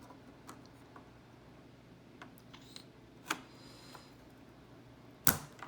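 DDR4 RAM stick being pressed into a motherboard DIMM slot: a few light plastic clicks and taps, then one sharp click near the end as the slot's retention latch snaps shut on the seated module.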